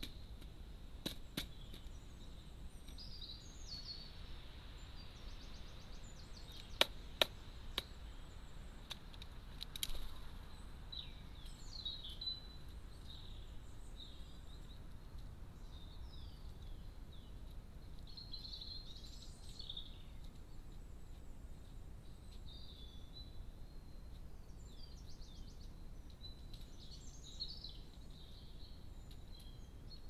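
Small birds chirping and calling faintly over a steady background hiss, with a few sharp knocks in the first ten seconds, the loudest pair about seven seconds in.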